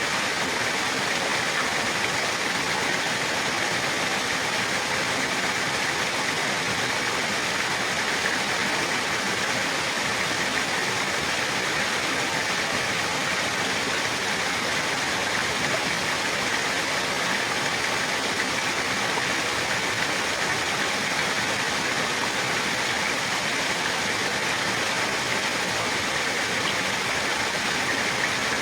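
Running water with a steady, even rush that does not change.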